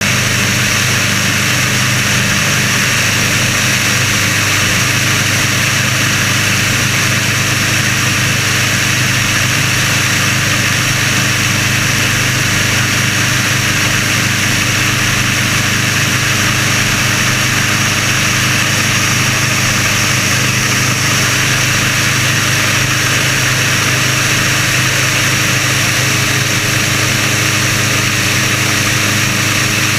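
Volkswagen-based engine of a Sonerai light aircraft running steadily under power, with propeller and rushing-air hiss over a constant drone; a new engine in its break-in period.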